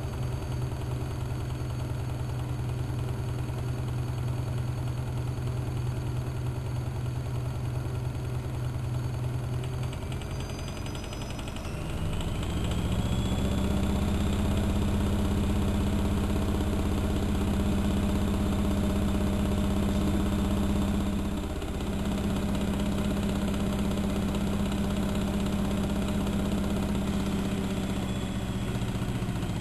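Bauknecht WA1400 Dolphin washing machine's motor and drum running with a steady hum, then about 11 seconds in speeding up to a higher steady pitch with a rising whine. The sound dips briefly about 21 seconds in, then carries on.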